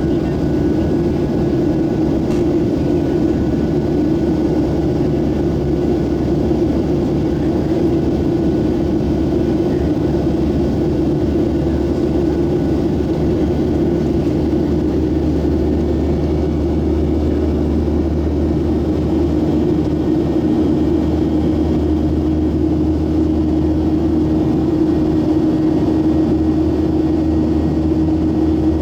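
Boeing 737-700's CFM56-7B jet engines running steadily after takeoff: a continuous drone with a low hum and a tone that grows clearer about two thirds of the way through.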